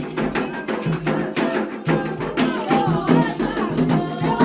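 Ritual Candomblé music: drums struck in a quick, even rhythm with rattle and wood-block-like percussion, and voices singing over it, the singing clearer in the second half.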